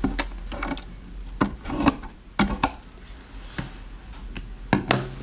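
Close-miked eating sounds: irregular sharp crunches and clicks, about a dozen in five seconds, over a low hum.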